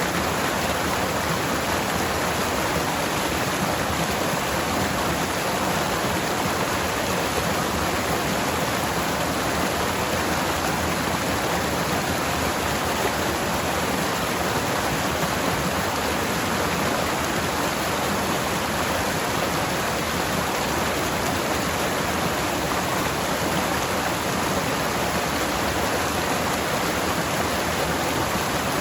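Forest stream water flowing over rocks, a steady rushing sound with no breaks.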